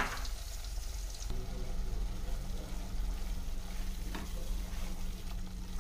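Ground onion-tomato masala paste sizzling in hot oil and butter in a kadai as it is stirred, with a light scrape of the spatula about four seconds in. The paste is being fried until the oil separates from it.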